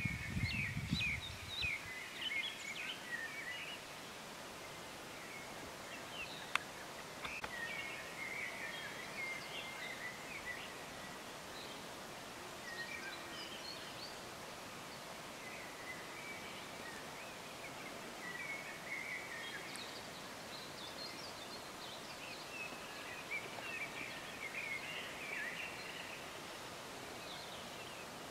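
Songbirds singing in short chirping phrases that come and go throughout, over a faint steady outdoor hiss. A low rumble fades out over the first two seconds, and there is a single sharp click about six seconds in.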